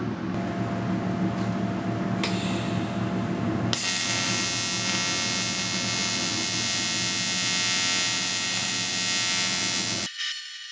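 Electric buzz of a Miller 280DX AC TIG welder arc on aluminium engine cases, a steady hum that turns into a louder, denser buzz a little over a third of the way in. It cuts off abruptly near the end, leaving only a thin high-pitched sound.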